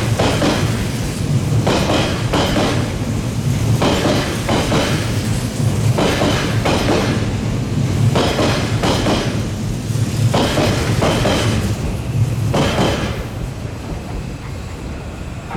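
Odakyu 70000 series (GSE) electric train running past, its wheels knocking over rail joints in pairs every couple of seconds over a steady rumble. The sound eases off near the end as the train goes by.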